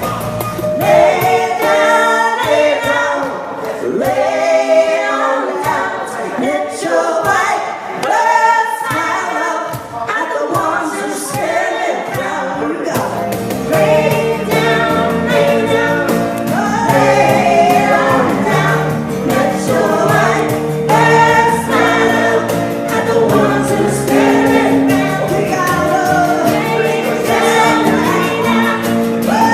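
Live group singing: several voices in harmony, with little low accompaniment under them at first. About thirteen seconds in, a steady bass and held chords come in beneath the voices.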